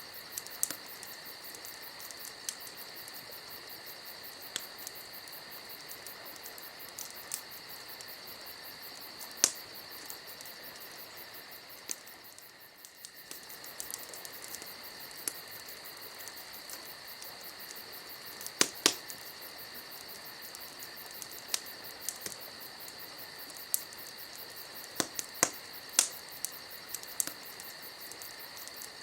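Campfire crackling with scattered sharp pops, a few louder ones about nine seconds in and in small clusters later, over a steady high chorus of crickets.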